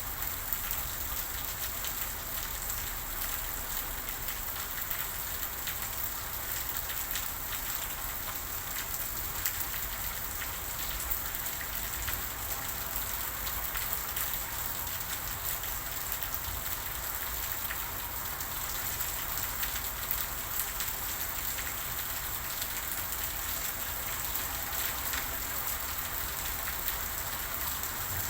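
Steady rain falling, with a continuous hiss and many separate drops ticking on a hard surface.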